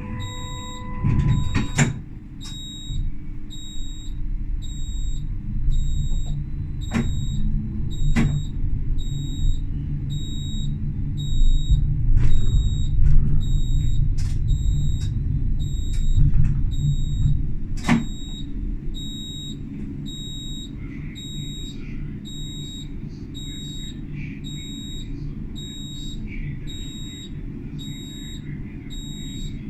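Tram running on its track: a low rumble of wheels and motors, loudest around the middle and easing off near the end, with a few sharp clicks over rail joints. A high-pitched beep repeats evenly throughout. A steady lower tone stops about two seconds in.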